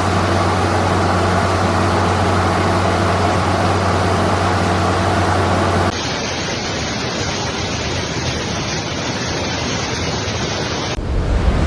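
Steady rushing of floodwater with a low, steady mechanical hum under it. About six seconds in, the sound changes abruptly: the hum stops and a duller rushing noise carries on.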